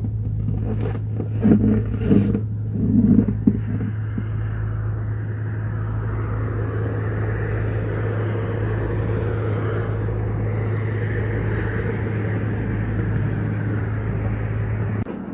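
A steady low engine hum, with a few brief irregular noises about two to three seconds in; the hum cuts off abruptly near the end.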